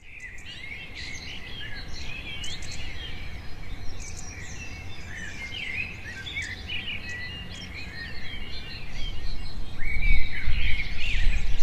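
Many small birds chirping and singing at once, short overlapping calls. A low rumble swells in underneath from about nine seconds in.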